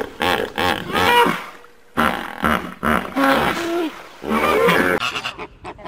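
Hippopotamuses calling: three bouts of deep, pulsed grunts and honks that rise and fall in pitch, with short pauses between them.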